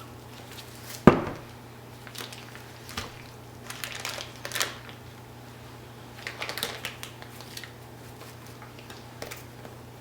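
Kitchen handling noises while seasoning rub is shaken into plastic bags of raw chicken: a sharp knock about a second in, then scattered light clicks and rustles.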